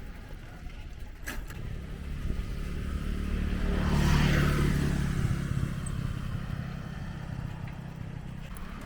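A motor vehicle passes close by: its engine and road noise swell to a peak about four seconds in, then fade as it moves away.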